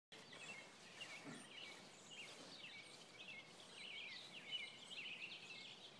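Faint birdsong: small birds chirping in many short, quick notes over a faint steady background noise.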